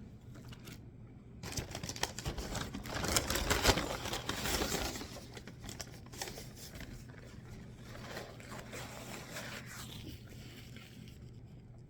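Crinkling and rustling of a paper sandwich wrapper being handled. It starts about a second and a half in, is loudest a couple of seconds later, then settles into softer rustling.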